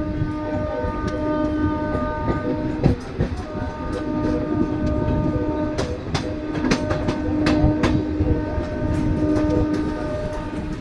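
Train horn sounding in long held blasts, with a short break about three seconds in, over the rumble of a moving train. Sharp clickety-clack of wheels over rail joints comes between about six and eight seconds in.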